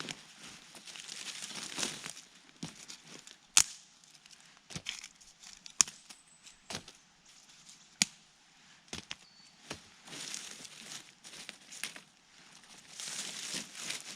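Rustling in dry forest leaf litter and twigs, broken by sharp woody cracks. The three loudest come about two seconds apart in the middle, with smaller clicks and snaps between them.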